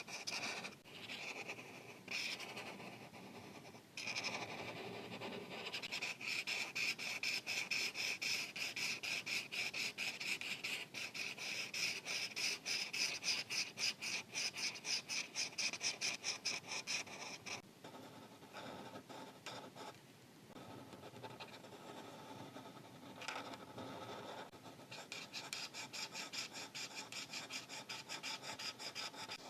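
Markers coloring on paper: quick back-and-forth scratchy strokes, several a second, with a few short pauses and a softer stretch a little past the middle.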